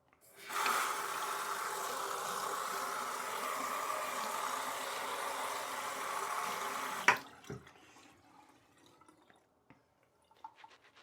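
Water running steadily from a tap for about seven seconds, then shut off with a sharp click; a few faint small clicks follow.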